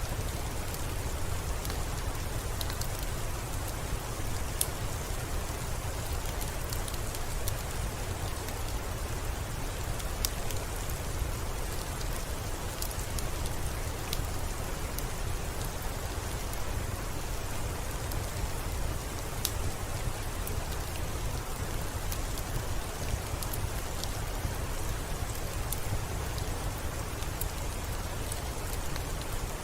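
Steady rain, an even hiss with a low rumble underneath, dotted with scattered sharp ticks throughout.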